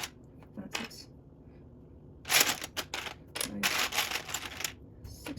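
Plastic Lego bricks clicking and rattling as they are handled and pressed together, in two bursts of rapid clicks from about two seconds in, the second one longer.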